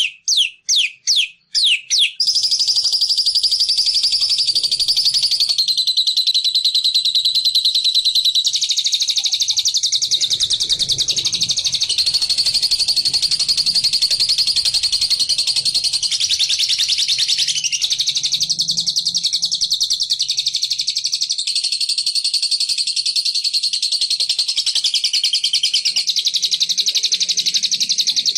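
Recorded bird song played as a lure for the labet (bilabu) bird. A few quick high sweeping notes are followed, about two seconds in, by a long, very fast, high-pitched trill that steps to a new pitch every few seconds without a break.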